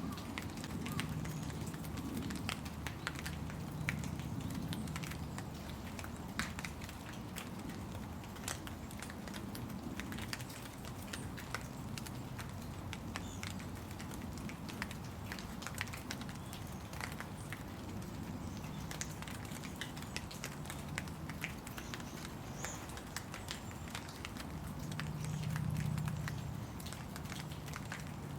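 Rain falling, heard as many separate drop hits over a low, uneven rumble that swells briefly near the end.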